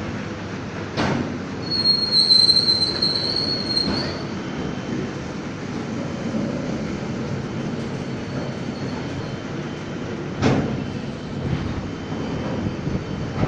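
Train running on rails: a steady rumble of wheels, with a high-pitched wheel squeal about two seconds in that lasts about two seconds, and a few sharp knocks of wheels over rail joints.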